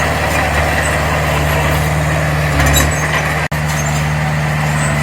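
Diesel engine of heavy earthmoving machinery running steadily under work. The sound cuts out for an instant about three and a half seconds in.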